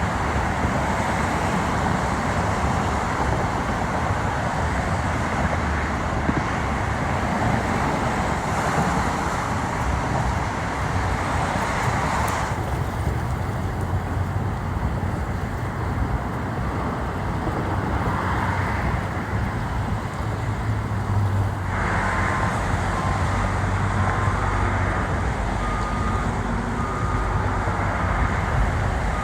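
Steady city traffic noise with a low rumble. About two-thirds of the way through, a vehicle's reversing beeper starts up: a regular series of short beeps, roughly one a second.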